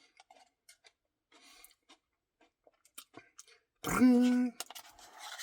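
Faint wet clicks and smacks of a person chewing a mouthful of ice cream, then a short hummed 'mmm' on one steady pitch about four seconds in.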